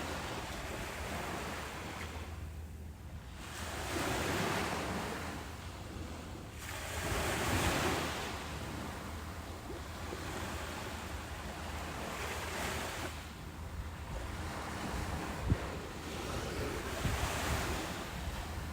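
Ocean surf breaking on a beach, a rushing wash that swells and fades, with two louder breakers about four and seven seconds in, over a steady low rumble.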